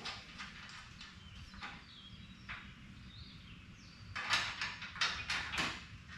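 A quick cluster of short knocks and scrapes about four seconds in, with a few fainter ones before: hardware and parts being handled while door valances are bolted on.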